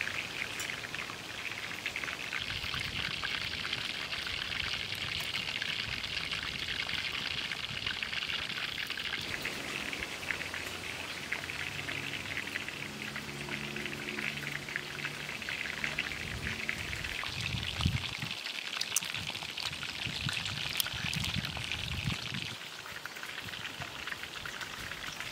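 Chicken thighs frying in oil in a wok over a wood fire: a steady, dense crackling sizzle. A few low knocks come in the last third.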